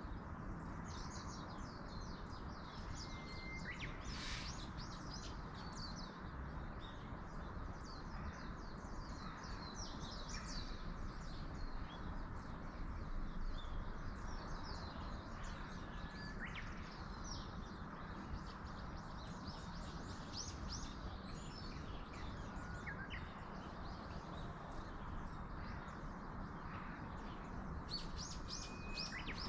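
Small songbirds chirping, many short high calls with a few brief whistled notes, over a steady low background rush.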